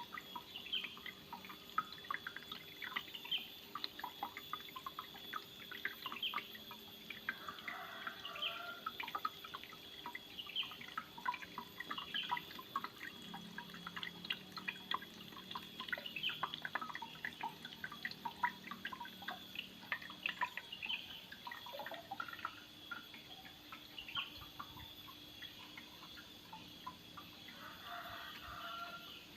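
Water falling from a small homemade waterfall, trickling and dripping in an irregular patter of drops and small splashes.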